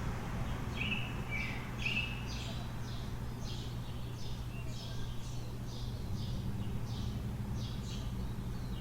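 Small birds chirping, a quick run of short high chirps about two a second, with a few lower whistled notes in the first two seconds. Under them runs a steady low city hum.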